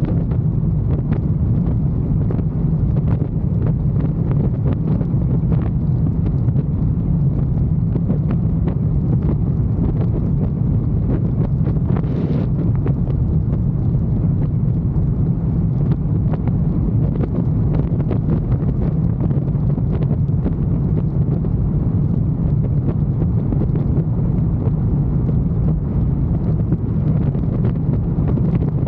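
Motorcycle riding at a steady speed: a steady low engine drone with heavy wind buffeting on the microphone.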